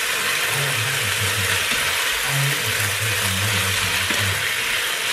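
Shrimp and rice sizzling and frying in a hot Ninja Foodi pot as they are stirred with a silicone spatula, with a low hum underneath.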